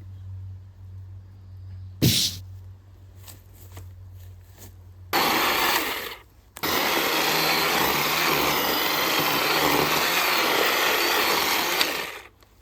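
Power saw cutting into the fallen tree's wood. A low hum at first, with a sharp knock about two seconds in, then a brief loud burst, a short pause, and a steady full-power run of about five seconds that stops near the end.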